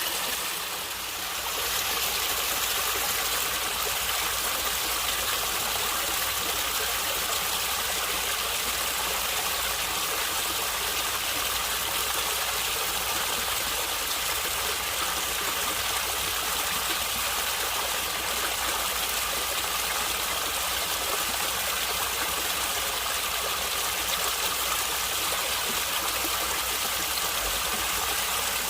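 A stream of water flowing and gurgling steadily over rocks, a continuous rushing hiss with a brief dip in level about a second in.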